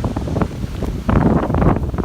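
Storm wind buffeting the microphone as a rough, crackling rumble, with a stronger gust about halfway through.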